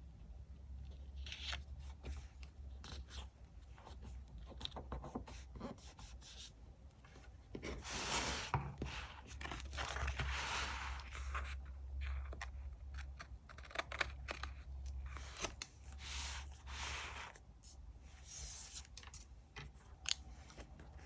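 Paper and stationery handled close to the microphone: stretches of rustling and tearing paper, with scattered light taps and clicks, over a steady low hum.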